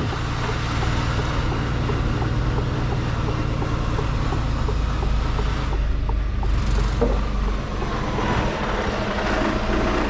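Mercedes-Benz Actros truck's diesel engine running steadily, with a slight dip in level about eight seconds in.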